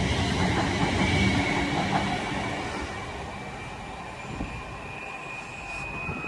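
A London Northwestern Railway Class 350 electric multiple unit moving away. Its rumble fades over the first couple of seconds, leaving a thin high whine that climbs slightly in pitch as it recedes.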